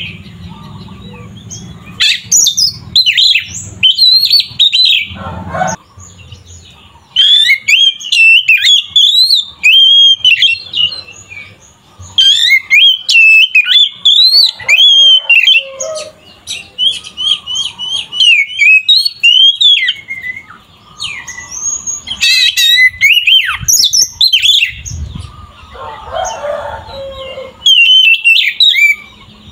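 Oriental magpie-robin in full, vigorous song: loud, fast runs of varied whistles, trills and chattering phrases, with brief pauses between bursts. This is the aggressive, fighting-mood song that keepers play to provoke other magpie-robins.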